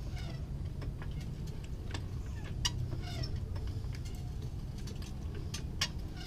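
Scattered light clicks and metal ticks over a steady low hum, while a floor jack raises the truck's front suspension.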